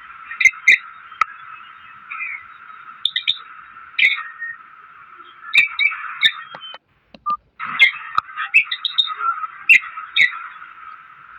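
Parrots chattering, with a steady dense chirping and many sharp, squeaky calls on top; the sound cuts out briefly a little past the middle.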